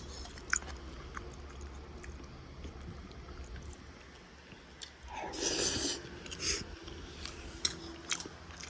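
A person eating, chewing, with scattered light clicks and a louder noisy burst lasting about a second just after the midpoint.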